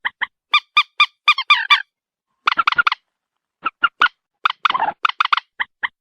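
Moorhen calling: loud, short, sharp notes repeated about four or five a second in quick phrases with brief pauses between them. A few of the notes are rougher and grating.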